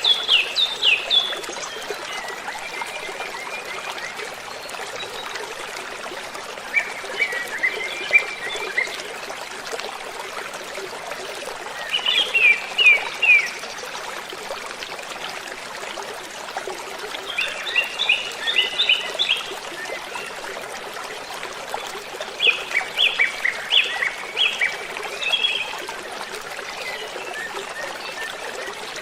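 Steady rush of waterfall water. Over it, birds sing short bursts of quick, high chirps every few seconds; these bursts are the loudest sounds.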